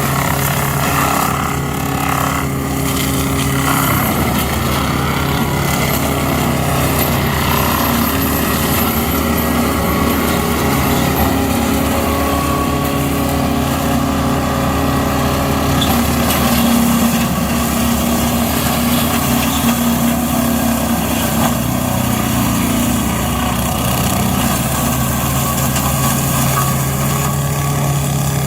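Carraro 100 hp reversible tractor's diesel engine running continuously, driving a W Forrest 1700 forestry mulcher. The drone keeps a steady pitch, with small shifts in its tone around the middle and a little past it.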